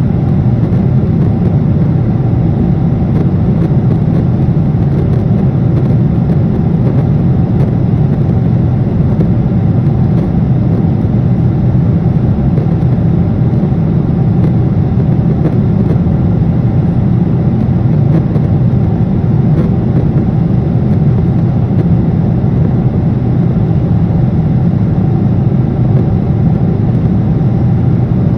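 Airliner cabin noise in flight: a steady low rush of engine and airflow noise with no changes.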